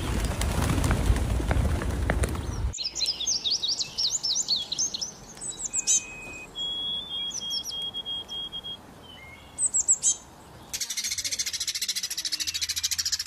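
A flock of pigeons flapping into the air, a loud rush of wings, for the first few seconds. Then scattered bird chirps and short thin whistles, and near the end a dense, fast chatter of house sparrows chirping.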